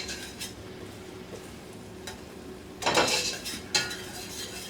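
Vegetables sautéing in a pot with a faint steady sizzle, then a spoon scraping and stirring around the pot in two strokes a little after halfway.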